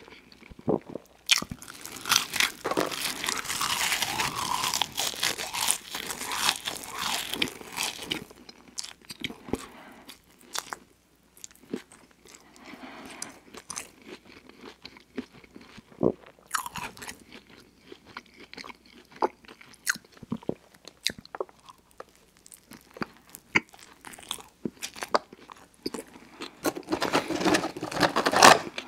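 Close-miked mouth sounds of a man chewing McDonald's French fries and a burger: wet, clicky chewing, densest in the first several seconds and again near the end, with sparser chewing in between.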